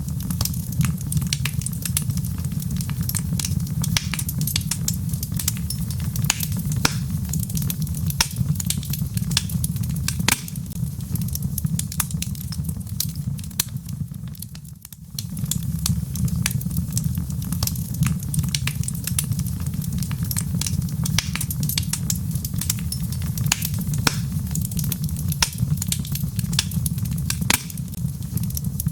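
Wood fire crackling in a fireplace: dense sharp pops and snaps from the burning logs over a steady low rumble of flame. The sound dips briefly about halfway through, then carries on as before.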